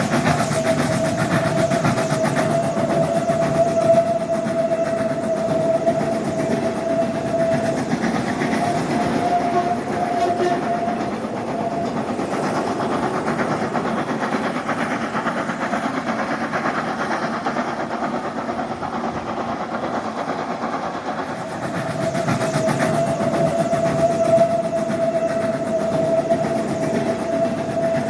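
Train running along the track with a steady rolling noise throughout, and a steady high ringing tone over it for about the first ten seconds, fading in the middle and returning near the end.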